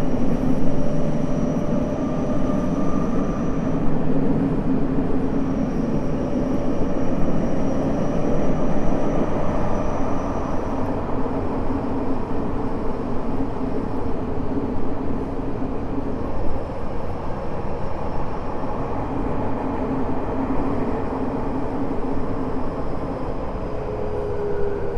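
Tokyo Metro 05 series train with a Mitsubishi IGBT-VVVF inverter running, heard from inside the car: a steady rumble of wheels on rail with several steady whining tones from the traction motors and inverter, and a slowly falling tone near the end.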